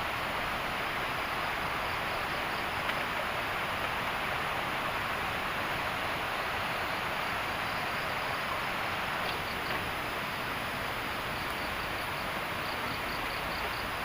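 Steady rushing of a river flowing nearby, even and unbroken. From about halfway, insects chirp faintly in quick pulsed trains above it.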